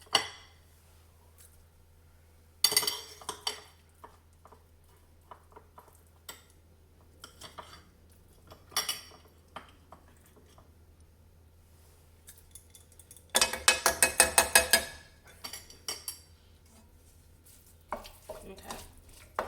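A spoon clinking and scraping against a pan and container as pesto is spooned onto cooked chicken. The sounds are scattered clinks, with a sharp clank at the start. The loudest part comes about two-thirds of the way in: a quick run of sharp taps, about eight a second, lasting about a second and a half.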